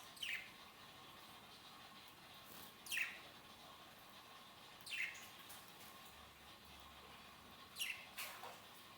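Pet lovebirds giving short, sharp single chirps that drop quickly in pitch, spaced a couple of seconds apart.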